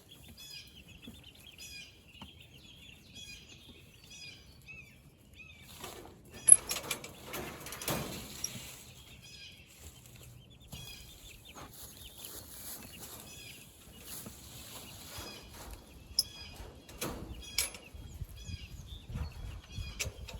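Meat chickens peeping over and over, with a flurry of wing flapping and scuffling about six to nine seconds in as the birds are handled.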